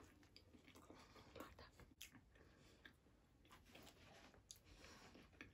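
Near silence with faint chewing: soft, irregular mouth clicks and small wet noises of someone eating.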